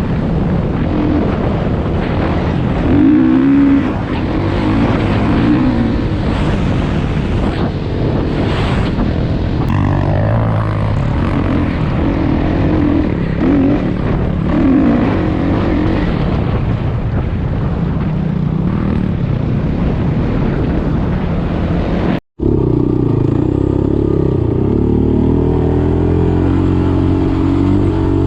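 Single-cylinder engine of an off-road dirt bike or sport quad running under way, its pitch rising and falling as the rider works the throttle through the gears. The sound cuts out for an instant about 22 seconds in.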